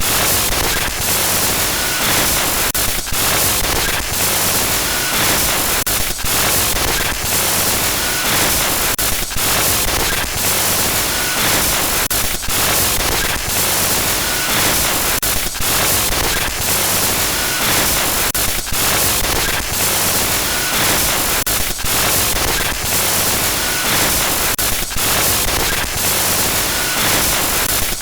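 Glitchy static noise used as a horror sound effect: a loud, harsh hiss at every pitch, broken by rapid stutters and brief dropouts. A faint high beep recurs about every three seconds.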